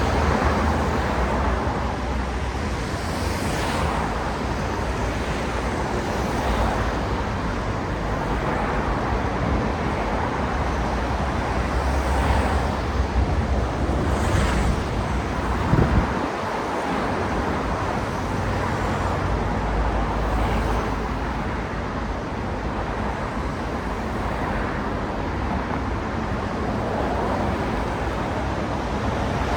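Steady road traffic: a constant rumble of tyres and engines, with cars swelling past every few seconds. A brief sharp sound comes about halfway through.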